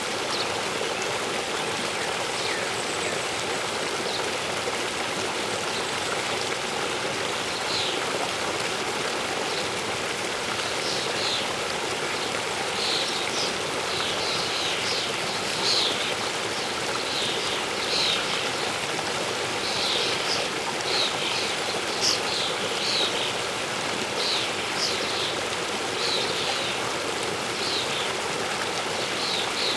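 Steady rush of a waterfall and flowing water, with birds chirping in short, quick calls from about a quarter of the way in, more often toward the end.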